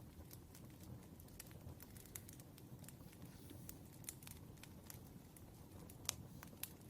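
Wood fire crackling softly: irregular sharp pops and snaps over a low rumble, with one louder pop about six seconds in.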